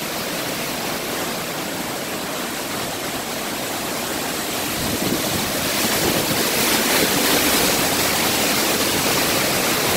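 Hurricane-force wind and driving rain: a steady, dense rushing noise that grows louder about halfway through.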